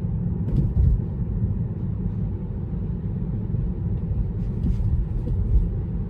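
Steady low road and tyre rumble inside the cabin of a Tesla electric car driving along.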